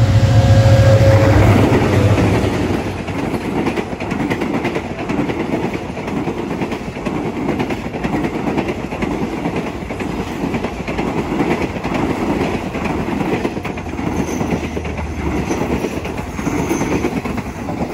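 SRT Hitachi diesel-electric locomotive passing close, its engine hum strong for the first couple of seconds, then a long train of carriages rolling past with a steady rhythmic clickety-clack of wheels over the rail joints.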